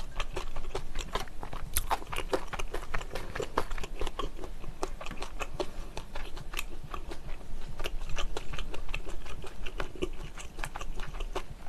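A person chewing food close to the microphone, mouth closed: a steady, irregular run of small mouth clicks.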